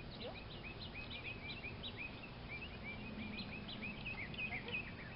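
Small birds chirping continuously, a quick run of short high notes several times a second, over a faint steady background hum.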